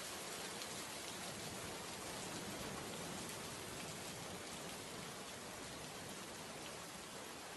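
Rain falling steadily on a wet surface: a dense, even hiss of many drops.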